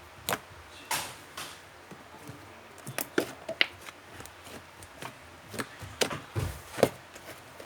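White clay slime being squeezed and pressed by hand, giving scattered sticky clicks and small squelches with a brief squeak about halfway through.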